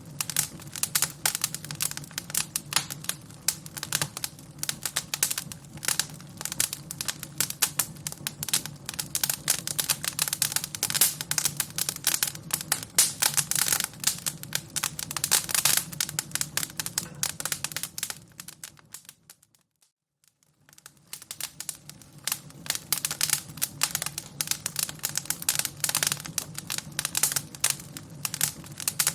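Fire crackling with dense, irregular pops and snaps over a low steady rumble. About two-thirds of the way through it fades almost to silence for a second or two, then fades back up.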